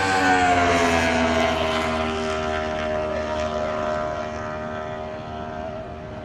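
Racing motorcycle engine running, its pitch dropping over the first couple of seconds as it slows, then holding steady while growing gradually quieter.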